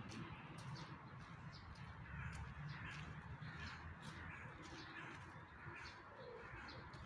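Birds calling: many short high chirps, with a run of lower, longer calls through the middle, over a steady low rumble.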